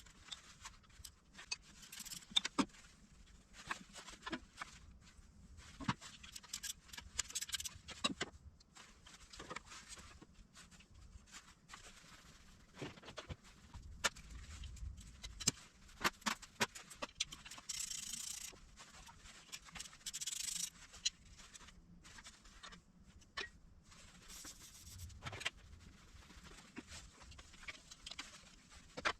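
Hand tools and metal engine parts clinking, clicking and scraping at irregular intervals during engine teardown, with two short rasping bursts about two-thirds of the way through.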